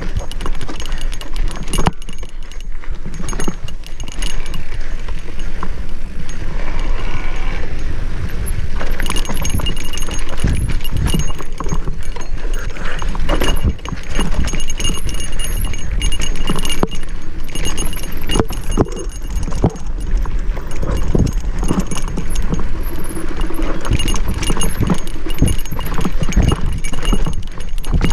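Mountain bike rattling down a rough singletrack: chain, frame and parts clattering with many quick knocks over rocks and bumps. Wind rumbles on the microphone throughout.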